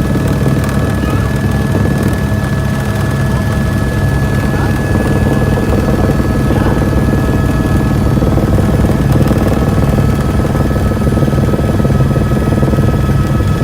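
Tour helicopter running steadily: a continuous low, rapid beat from the rotor with a steady high whine over it.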